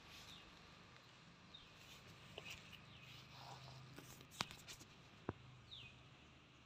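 Near silence with faint outdoor ambience: a few short, falling bird chirps and several soft clicks and taps.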